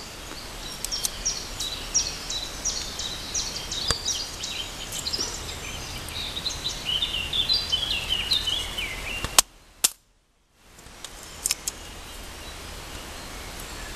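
Woodland birds singing, many short chirping notes over a steady outdoor hiss. About nine and a half seconds in come two sharp clicks, and the sound cuts out completely for about half a second.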